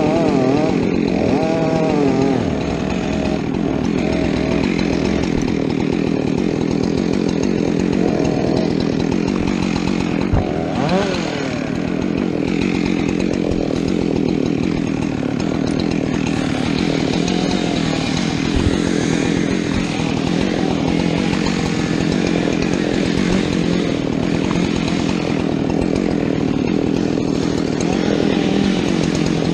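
Two-stroke chainsaw cutting through fir wood under load. Its engine note wobbles in the first couple of seconds, then holds steady.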